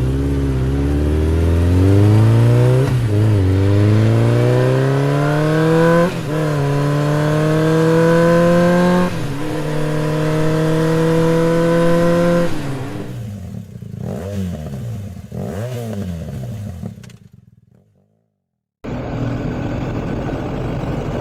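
BMW R1250GS boxer-twin engine accelerating hard up through the gears: the pitch climbs, drops at each of three upshifts about three seconds apart, and climbs again. The engine note then falls and wavers as the bike slows and fades out. After a brief silence, steadier engine and road noise returns.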